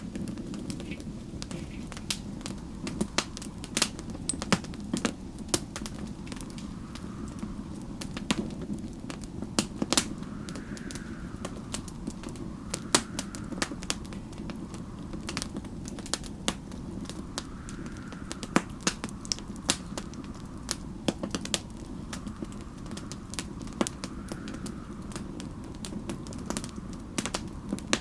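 Wood fire crackling, with many irregular sharp pops and snaps over a steady low rumble. Faint swells of wind rise and fall every few seconds.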